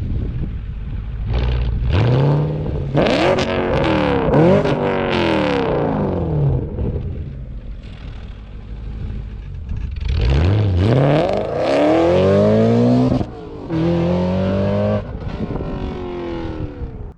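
Supercharged Audi RS4 B7 4.2-litre V8 through a catless exhaust, revving hard: several quick rises and falls in pitch, then a longer climb with a brief dip in the sound near the end, a held stretch, and a fall.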